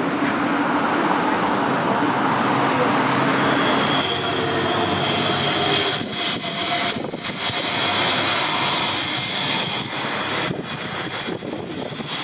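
A train running past on the rail line. About four seconds in, a high steady tone joins the running noise.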